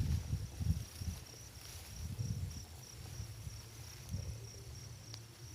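A cricket chirping steadily in a high, even pulse, about four chirps a second. Under it is low rustling and handling noise that is loudest in the first second and then dies down.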